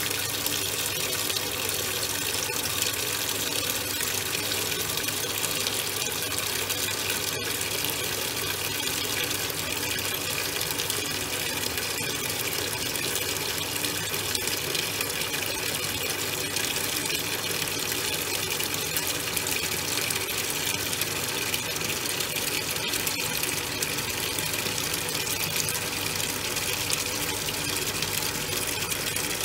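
Top-loading washing machine at work on a load of towels: a steady rush of water churning in the drum, with a faint low hum under it.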